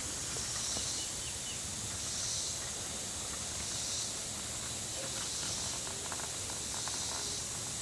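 Rural outdoor ambience: a steady high-pitched hiss that swells and fades every second or two, with a few faint ticks.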